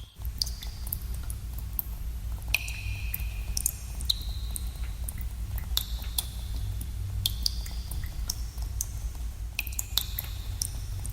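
Water drops falling into pools in a cave: irregular, echoing plinks, often several a second, over a steady low rumble.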